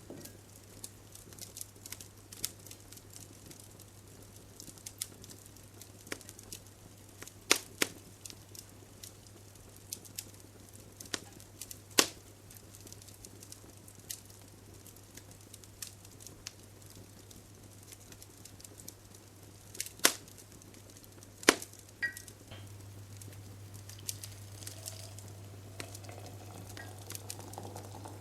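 Light kitchen clicks and taps with a few sharp knocks of things being handled and set down. About three quarters of the way through, a steady hum comes on and a rising hiss builds: a kettle of water starting to heat toward the boil.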